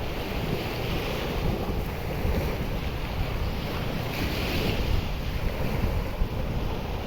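Wind buffeting the microphone with a low rumble, over the hiss of surf washing on a sandy beach; the wash swells about four seconds in.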